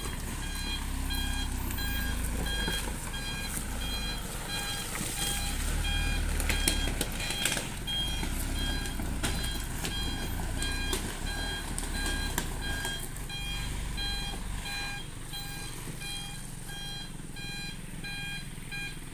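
Reversing beeper of a Mitsubishi Canter dump truck sounding in a steady, even series of short high beeps, about two a second, over the low running of the truck's diesel engine, with scattered knocks and rattles.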